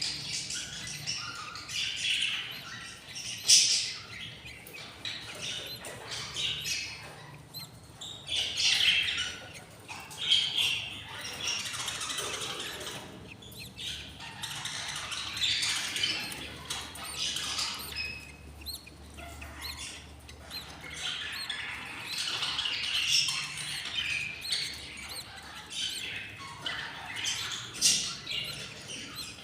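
Budgerigars chirping and squawking, a run of short calls one after another with a few louder squawks.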